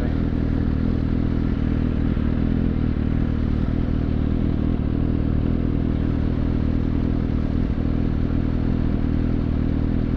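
Suzuki GSX-S750's inline-four engine running at a steady pitch while the motorcycle is ridden, with no revving up or down.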